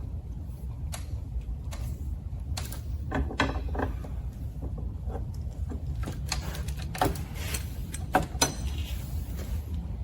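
Metal parts being handled: scattered clicks, knocks and short metallic clinks, a few ringing briefly, over a steady low rumble.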